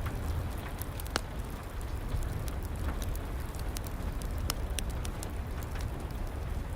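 Fireplace wood fire crackling, with scattered sharp pops, over a steady hiss of rain.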